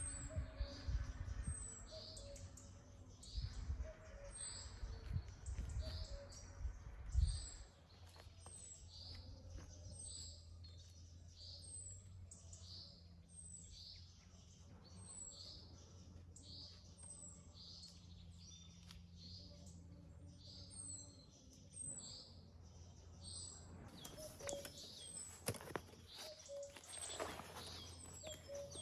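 A bird chirps over and over, about once a second, in a short high call. Low thumps and rumbling sound under it for the first seven seconds, and a rustling hiss comes in near the end.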